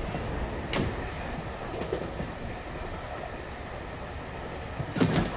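Passenger train running: a steady low rumble, with a sharp clack about a second in and a louder knock near the end.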